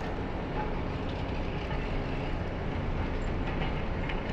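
Steady, even rumble of a demolition excavator's diesel engine running as the machine works at the concrete.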